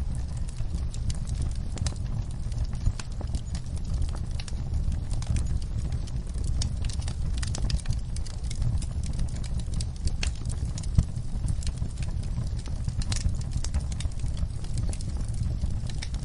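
Wood fire crackling in a fireplace: a steady low rumble of the flames with scattered, irregular sharp pops and snaps.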